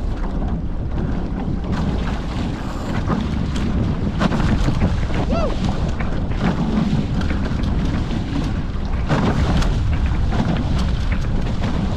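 Wind buffeting the microphone and water rushing along the hulls of a Hobie 14 catamaran under sail, with scattered short slaps.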